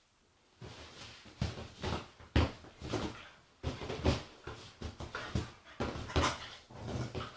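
Agitated Staffordshire bull terrier making a string of short, irregular vocal noises, a few each second, starting about half a second in.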